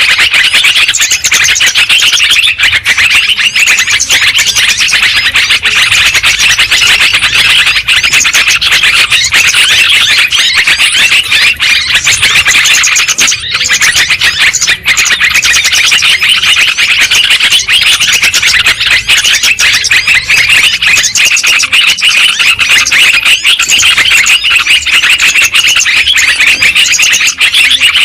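Yellow-vented bulbuls (trucukan) calling and chattering in a dense, loud, unbroken chorus of overlapping chirps and warbles, played as a lure recording to draw wild bulbuls and tutor caged ones.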